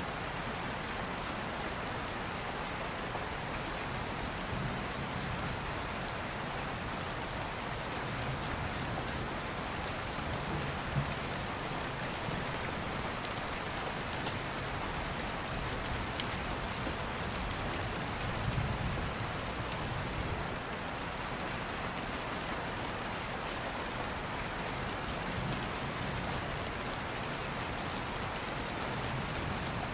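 Steady rain falling, an even hiss throughout. There are a couple of sharp pops about 11 and 16 seconds in, and a low rumble swells briefly around 18 seconds.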